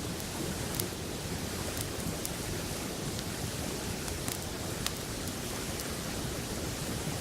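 Wood campfire crackling, a few sharp pops here and there, over the steady rush of a flowing river.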